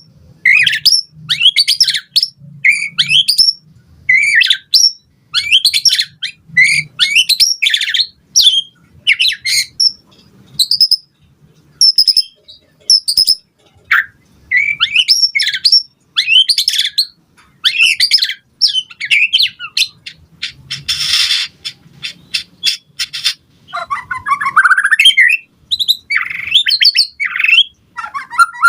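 White-rumped shama (murai batu) singing a fast, varied song of short whistled phrases with brief pauses between them. A harsh, rasping burst comes about two-thirds of the way through.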